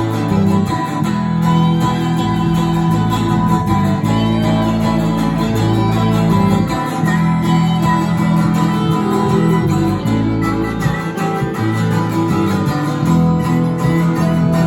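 Instrumental music led by guitars, with held chords over a low line that changes note every second or so.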